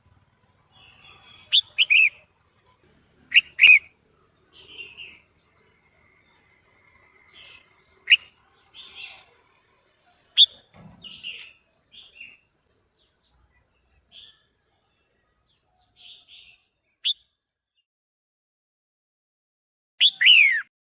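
Red-whiskered bulbul calling: scattered short, sharp whistled notes and softer chattering phrases, with a loud pair of downward-sweeping calls near the end.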